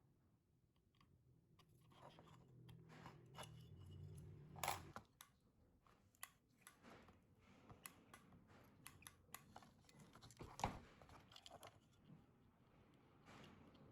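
Faint, scattered small clicks and taps of hand work on parts, with two louder knocks, one about five seconds in and one about ten and a half seconds in.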